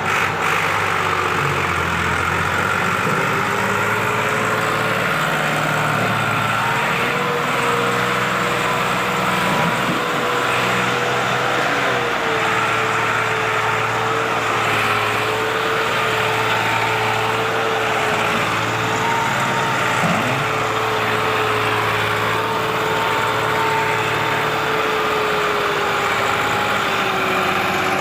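Massey Ferguson 260 tractor's diesel engine running steadily, with a high whine over the engine note that drifts slightly up in pitch and slowly back down.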